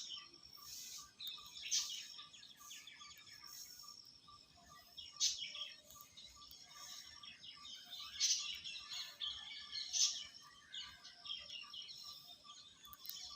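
Birds chirping and twittering, with short high calls coming in quick clusters and a few sharp, louder chirps spaced a few seconds apart.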